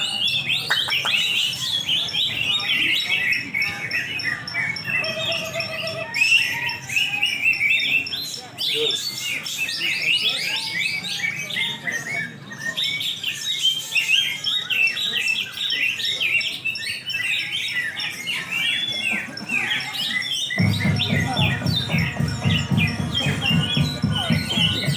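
Several cucak hijau (greater green leafbirds) singing at once, a dense run of quick chirps and warbled phrases. About twenty seconds in, electronic music with a heavy low beat starts under the birdsong.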